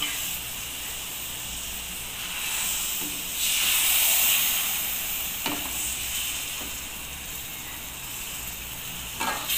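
Spiced tomato masala sizzling in a hot pan as it is stirred with a perforated metal spatula: a steady hiss that swells louder about three and a half seconds in, with a light knock of the spatula about five and a half seconds in.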